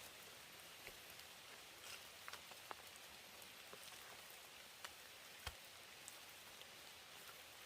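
Faint steady rain, with scattered single drops tapping sharply every second or so.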